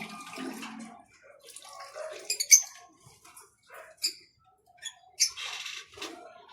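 Birds bathing, splashing and fluttering in water in short bursts, with a longer splash near the end.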